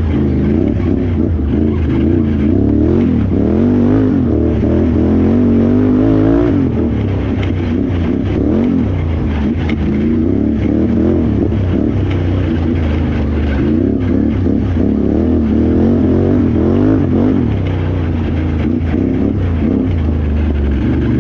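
Can-Am Renegade XXC 1000R ATV's V-twin engine racing off-road, its revs rising and falling over and over as the throttle is worked.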